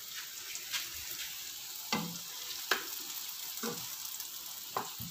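Pumpkin slices sizzling in hot oil in a frying pan, a steady hiss, with a utensil knocking against the pan four times as they are stirred.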